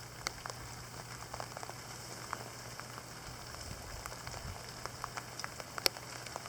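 Steady rain with large, heavy drops: an even hiss of rainfall with scattered sharp ticks of drops hitting close by, one louder tick near the end.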